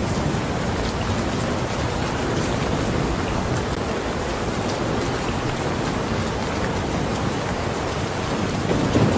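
Steady, heavy rain falling, a dense even hiss with scattered drop ticks. A low rumble of thunder starts to build right at the end.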